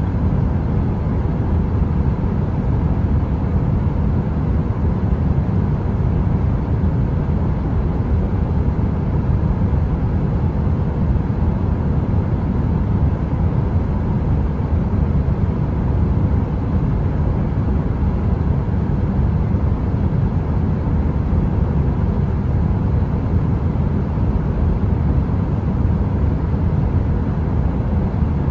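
Heater running with a steady, even low rumble and little hiss in the highs, with no crackling or changes.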